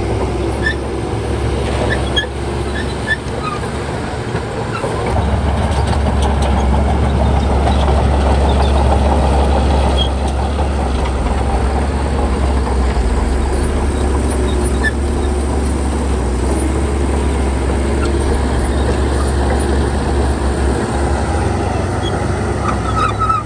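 Shantui crawler bulldozer's diesel engine running steadily as the machine works, with faint clanks over it; the engine grows louder about five seconds in and holds there.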